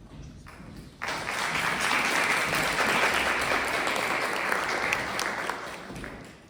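Audience applauding. It starts abruptly about a second in and dies away near the end.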